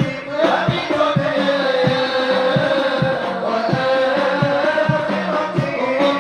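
A group of voices singing sholawat together in a long, drawn-out devotional melody, over a steady rhythm of low hand-drum strikes.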